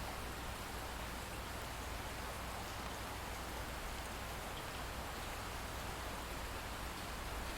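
Light rain falling steadily, an even continuous hiss with a steady low rumble underneath.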